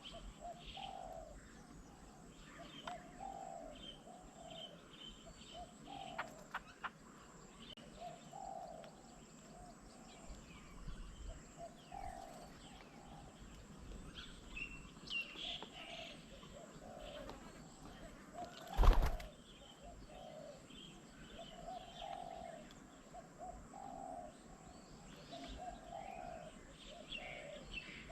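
Doves cooing over and over in low, repeated notes, with scattered higher bird chirps. About two-thirds of the way through there is one brief loud thump.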